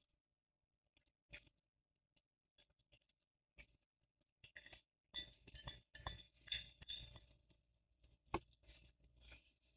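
Faint eating sounds from a bowl of ramen: utensils clicking and scraping against the bowl, busiest from about halfway in, with one sharp click near the end.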